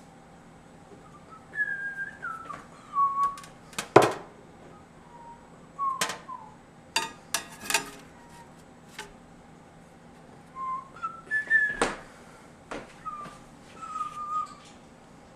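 Microwave oven humming while a DVD inside it arcs. Sharp electrical snaps come several times, the loudest about four seconds in, along with short falling whistling squeals.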